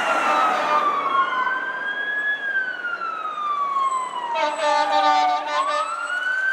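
Emergency vehicle sirens wailing in slow rising and falling sweeps, two overlapping at first. About four and a half seconds in, a steady horn blast of roughly a second sounds over them.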